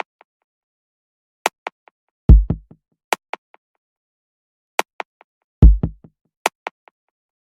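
Sparse drum-machine intro of a song, with no vocals. A deep bass kick hits twice, about three seconds apart. Between the kicks come sharp clicks, each repeating as fading echoes.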